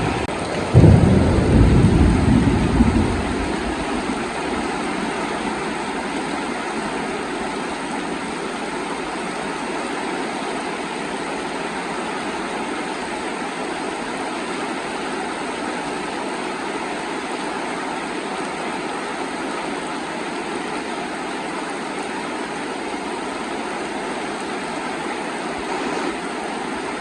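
Heavy rain falling steadily. A loud rumble of thunder begins suddenly under a second in and dies away after about three seconds.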